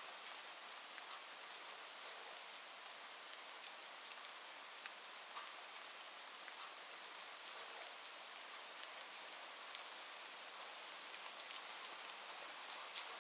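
Steady rain with many small scattered drop ticks.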